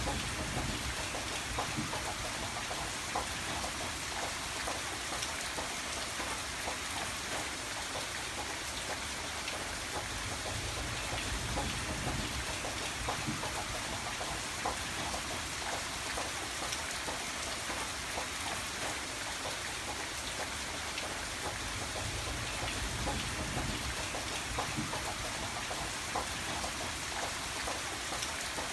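Steady rain falling on a surface, a constant patter of many drops.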